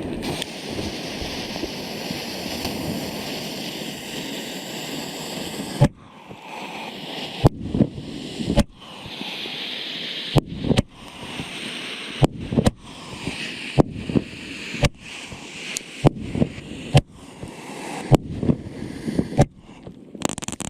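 26 mm Babel firework cake firing. It begins with a steady hiss, then from about six seconds in gives sharp bangs roughly once a second, each trailing off.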